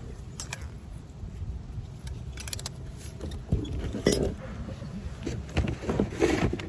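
Scattered light metallic clinks and knocks from small objects being handled, over a steady low rumble, with the knocks growing louder and more frequent after about halfway.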